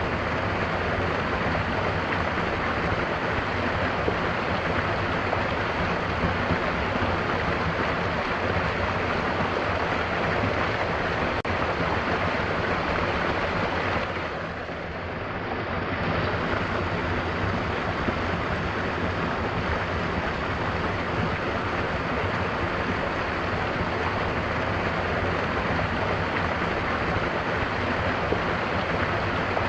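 Mountain waterfall pouring steadily, a dense, even rush of falling water. The level dips briefly about halfway through, then returns.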